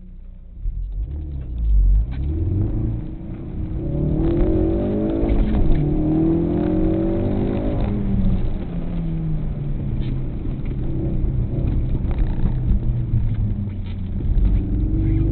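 Car engine accelerating hard and easing off during an autocross run, its pitch climbing and dropping again several times over a low rumble.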